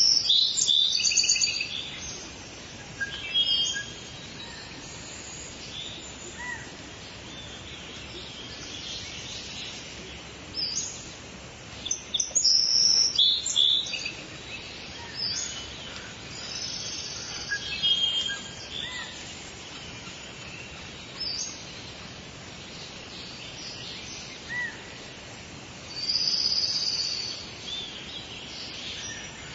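Songbirds chirping and singing in short, high-pitched calls and trills over a steady background hiss. The loudest bursts of song come at the start, about twelve seconds in, and near the end.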